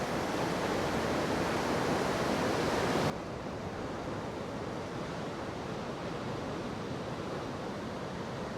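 Rough sea surf with some wind, a steady rushing noise. About three seconds in it cuts off abruptly to a quieter, duller rush.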